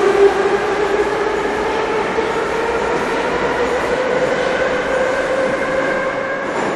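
Moscow metro train running, its traction motors whining in a pitch that rises steadily as the train gathers speed, over the rumble of the wheels on the rails.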